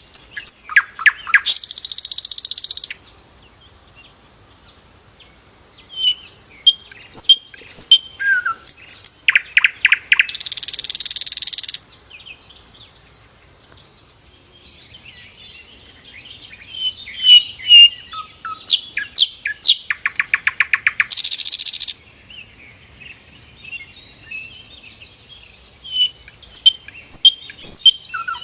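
Sikatan londo flycatcher singing: a phrase of short clear whistled notes and quick downward-sweeping notes, ending in a harsh buzzy trill about two seconds long. The phrase comes three times with quiet pauses between, the lively song of a bird in full voice.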